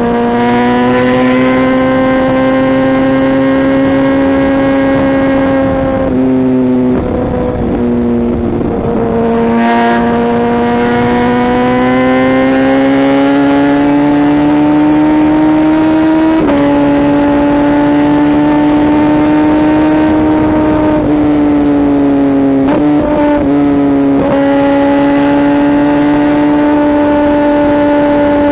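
Kawasaki ZX-10R inline-four with a Mivv aftermarket exhaust, running at high, steady revs under way. The pitch climbs slowly and breaks briefly several times, stepping to a new note at each gear change.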